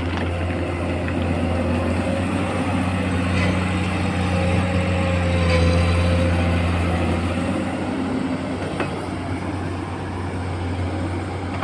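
Excavator's diesel engine running steadily with a strong low hum and a wavering whine, swelling louder around the middle as it works.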